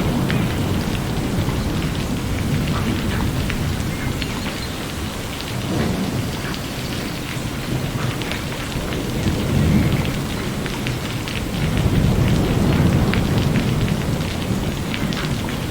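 Steady rain falling, with many single drops ticking through it, and low rumbles of thunder swelling about ten seconds in and again a couple of seconds later.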